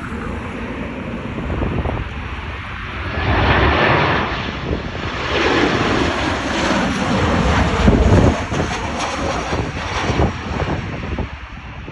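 Jet engines of a Boeing 737-800 airliner passing on arrival: a steady jet roar that swells twice, about four and eight seconds in, with a faint falling tone between, then eases off near the end.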